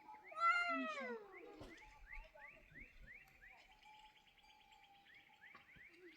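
An animal's cry, a single drawn-out call that rises and falls in pitch about half a second in, followed by a run of short, faint, repeated chirps, about two a second.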